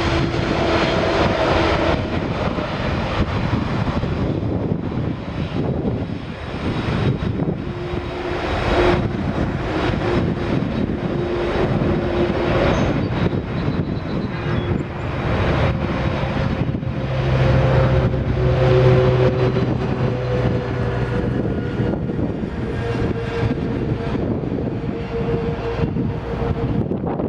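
Boeing 767-300ER jet engines running, a steady loud rumble with several held whining tones that shift slightly in pitch.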